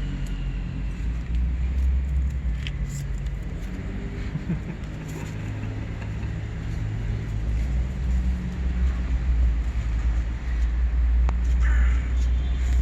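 Steady low rumble of road traffic, with vehicle engines humming. A crow caws briefly near the end.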